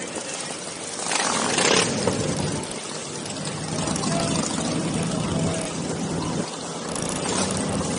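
Motorcycles running at low speed in a group ride, with a steady low engine hum through the middle and a louder rush of noise about a second in.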